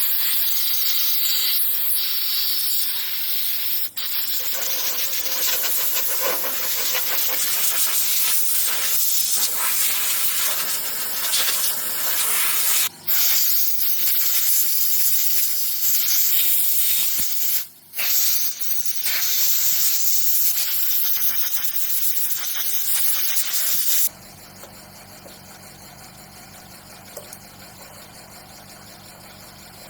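Loud, steady hiss of air being sprayed under pressure, cut off briefly three times as the trigger is let go. About 24 seconds in it stops abruptly, leaving a much quieter, steady low hum.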